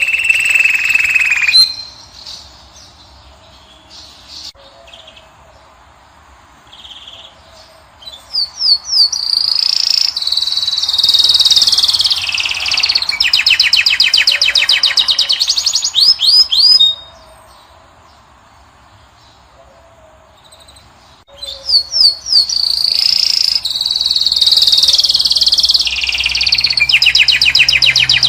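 European goldfinch singing: high-pitched phrases of fast twittering, quick rising notes and rapid trills. One phrase ends about two seconds in, a long one runs from about eight to seventeen seconds, and another starts about twenty-one seconds in, with quieter pauses between.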